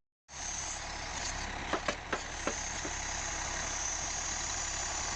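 A log-loading crane truck's engine running steadily, with a handful of sharp knocks about two seconds in.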